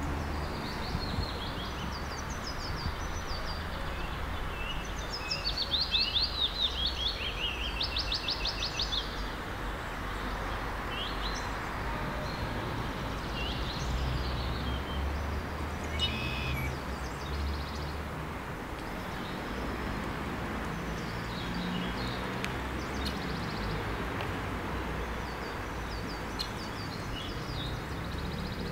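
Songbirds chirping and trilling over a steady outdoor background hiss and low rumble, with a fast repeated trill loudest about six to nine seconds in.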